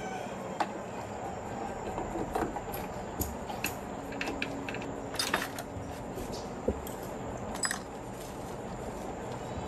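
Metal tools and parts clinking and tapping now and then during gearbox work, with a few quick clinks close together about halfway through, over a steady hiss.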